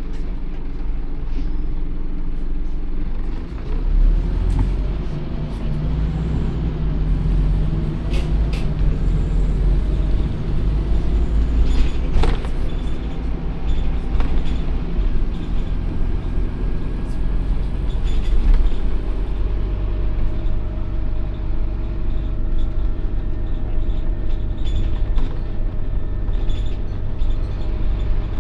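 Scania OmniCity N230UD double-decker bus's 9-litre five-cylinder diesel engine running, with scattered clicks and rattles. Its note settles into a steadier hum about twenty seconds in.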